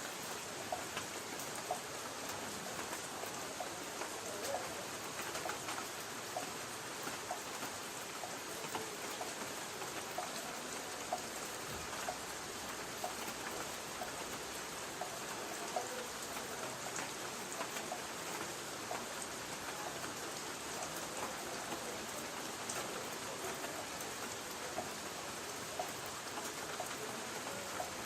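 Light rain falling on a tin roof: a steady hiss of rain with many scattered single drops tapping on the metal.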